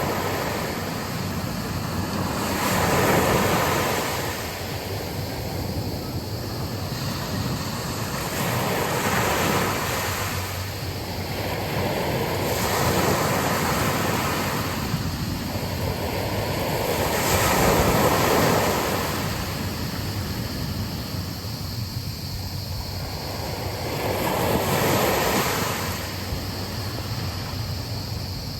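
Sea waves breaking and washing up a beach, rising and falling in a swell every few seconds, with wind.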